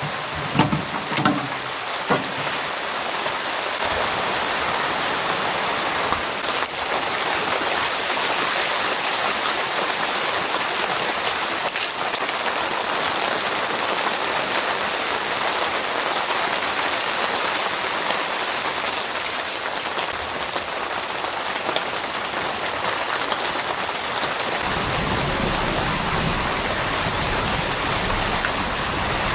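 Steady rain falling, an even hiss of drops. There are a few short knocks in the first couple of seconds, and a lower rumble joins near the end.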